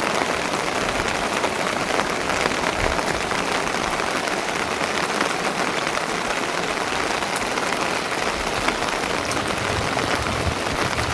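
Steady rain falling: a dense, even hiss of drops with many small clicks, unchanging throughout.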